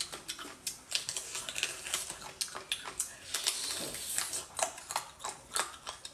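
Close-miked eating: a person biting and chewing a firm, translucent piece of seafood. It makes a quick, irregular run of crisp crunches and wet clicks, thickest about three to four seconds in.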